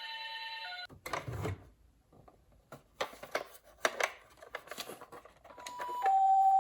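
A toy ambulance's electronic hi-lo siren, the Japanese 'pi-po' two-tone, alternates between two pitches and stops just under a second in. Then come a few seconds of scattered clicks, knocks and plastic rattles. Near the end the siren starts again, louder.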